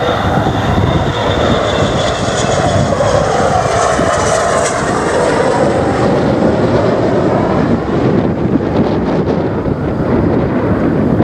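Airliner's engines as the aircraft passes: a loud, steady rumble with high whining tones, the pitch bending downward about halfway through.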